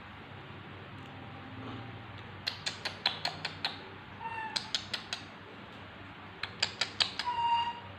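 A baby monkey calling: three quick bursts of sharp, squeaky chirps, the second and third ending in a short high squeal.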